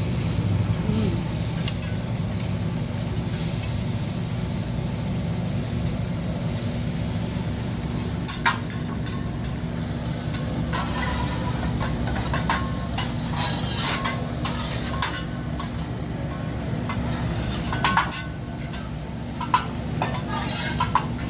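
Hibachi griddle sizzling over a steady low hum, with sharp metal utensil clinks, some of them ringing, scattered through the second half.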